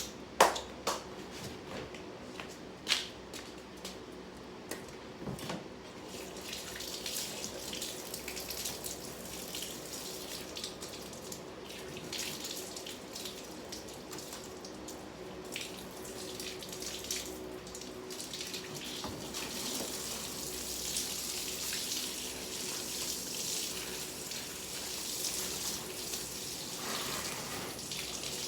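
Water running steadily from a tap into a sink, after a few sharp clacks and knocks in the first few seconds.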